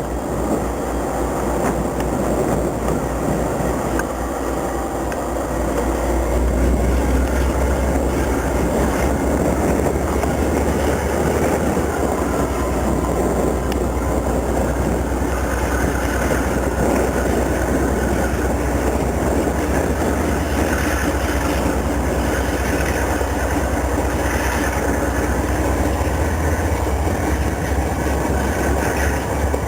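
A Ferromex freight train rolling past, its wheels rumbling and rattling steadily on the rails with a deep, even rumble underneath.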